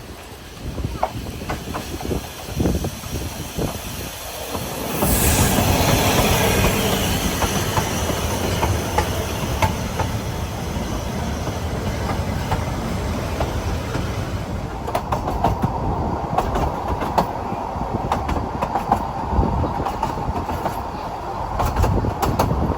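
Ffestiniog Railway narrow-gauge train running on the rails, growing suddenly louder about five seconds in. In the second half the wheels click over the rail joints and a steady squeal rises from the wheels.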